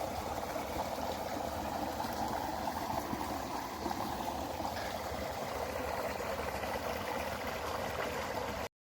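Running water of a stream, a steady, even burble. It cuts off abruptly near the end.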